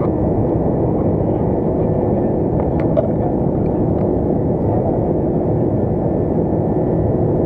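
Steady cabin noise inside an Airbus A330-200 in its climb: the drone of the engines and airflow, with a few faint clicks.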